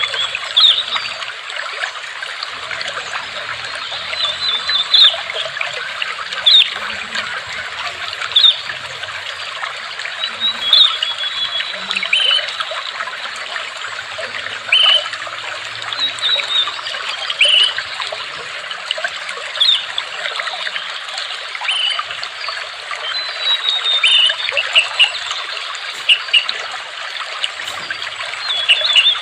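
Water trickling and splashing steadily, with short high bird chirps and whistles scattered throughout.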